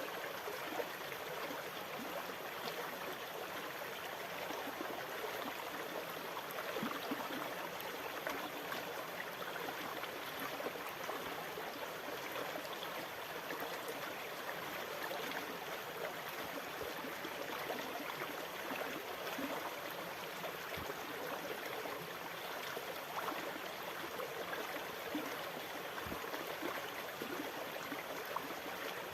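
Steady rush of sea water with a fine trickling, gurgling texture, with no separate swells or breaking waves.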